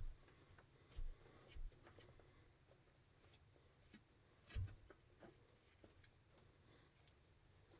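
Near silence broken by a few faint knocks and light scraping, the loudest knock about four and a half seconds in.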